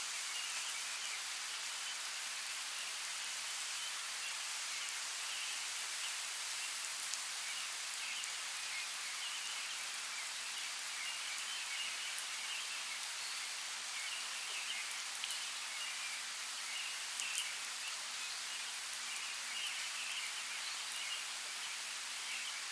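Steady rain falling: an even hiss with scattered sharper drop ticks, a few louder ones in the middle.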